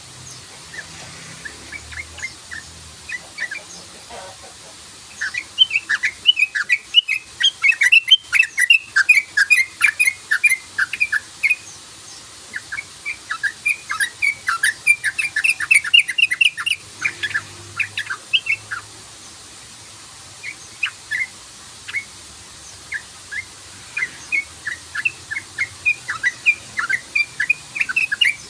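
Yellow-vented bulbul (trucukan) singing its fast 'cruk-cruk-cruk' run of short chirping notes, many a second, in long bursts with a thinner stretch between them.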